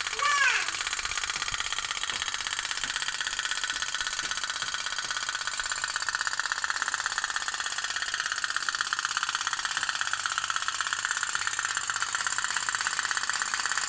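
Toy pop-pop boat (kapal otok-otok) running, making a rapid, steady stream of pops that gets slightly louder near the end.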